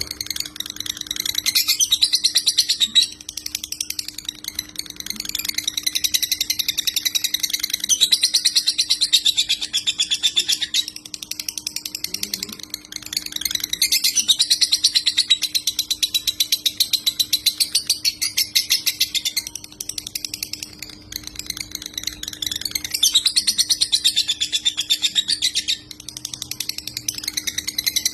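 Lovebird singing in the long, rapid, unbroken chatter that Indonesian bird keepers call 'konslet', in runs of several seconds with short breaks, over a faint steady hum.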